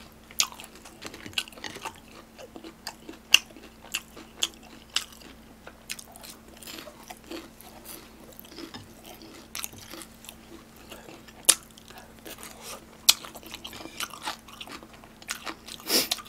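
A person chewing and biting crunchy food right at the microphone, with sharp crunches and mouth clicks every second or so and a cluster of louder ones near the end, over a faint steady hum.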